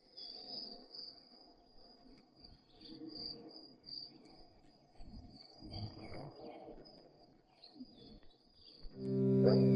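Steady high-pitched insect chirring, like crickets, with faint scattered low rustles. About nine seconds in, loud plucked-guitar music comes in over it.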